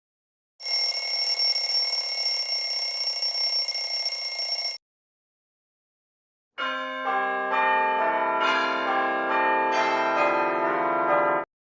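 A steady electric-sounding ringing for about four seconds, then after a short pause a series of bell tones struck one after another, each ringing on so they build up into an overlapping chord before cutting off.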